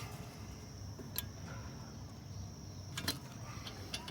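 A few light metallic clicks and knocks from a tool working a brake caliper bolt, over a faint steady high tone.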